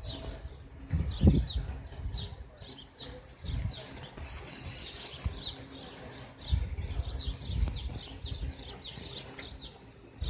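Small birds chirping steadily: short, falling chirps, several a second, with low rumbling swells underneath now and then.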